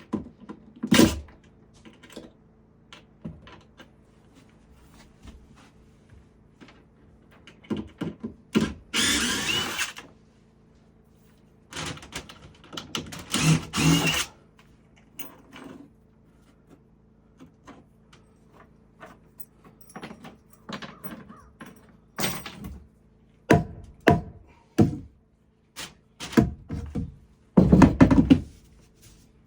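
Carpentry work: scattered wooden knocks and thunks of boards and tools being handled, with three short, louder bursts of tool noise, about a third of the way in, near the middle and near the end, over a faint steady hum.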